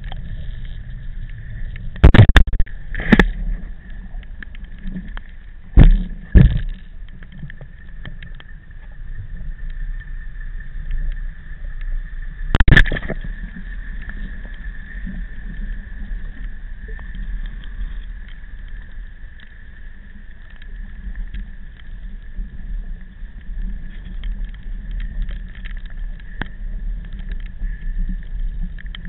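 Riding noise from a bicycle in strong typhoon wind: a steady low rumble of wind on the microphone under a thin, steady high whine. Sharp knocks come about two and three seconds in, a pair near six seconds, and another near thirteen seconds.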